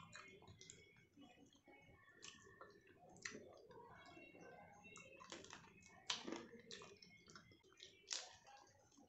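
Faint eating sounds: chewing, with scattered short, sharp mouth clicks and crackles.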